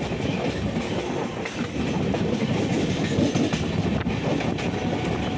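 Indian Railways express passenger train running on the rails: a steady rumble of wheels and coaches, with clickety-clack over the rail joints.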